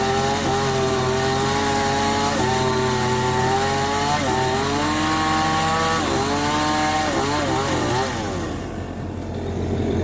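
Excavator's diesel engine and hydraulics running under load, a strained whine that steps up and down in pitch as the controls are worked, easing off about eight seconds in.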